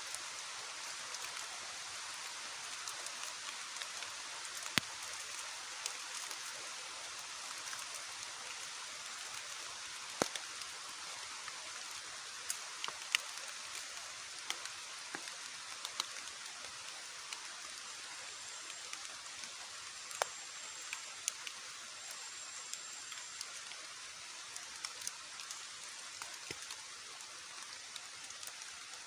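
Heavy rain falling steadily as an even hiss, with single large drops tapping sharply every second or two.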